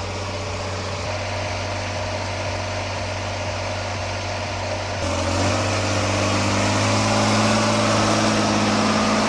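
A heavy vehicle's engine running steadily, then pulling harder and louder about five seconds in, its pitch creeping up as it works through deep mud.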